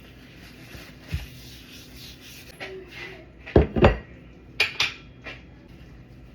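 Kitchen dishes and utensils clattering: a light knock, then a quick run of louder knocks a bit past the middle, followed by two sharp clinks.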